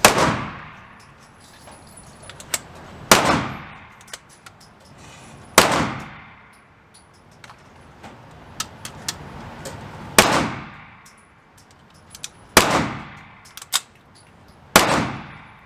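A gun fired in slow, single aimed shots: six loud reports spaced about two to five seconds apart, each ringing out briefly. Fainter sharp cracks and clinks fall between the shots.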